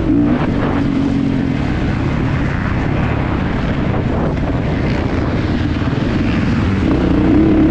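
Kawasaki KX450 four-stroke single-cylinder motocrosser engine running under load, heard onboard with wind rush; its note holds clear at first and again near the end, wavering and blurring in between.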